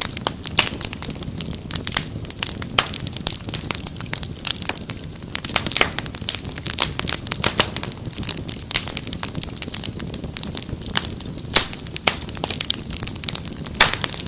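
Fireplace fire crackling: frequent sharp pops and snaps over a low, steady rumble of burning.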